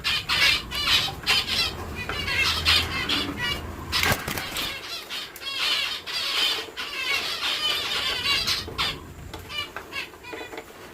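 Spotted dove chicks squeaking in rapid runs of short high chirps, with fluttering wings, the begging of young squabs. A low rumble under the first few seconds stops after a sharp knock about four seconds in.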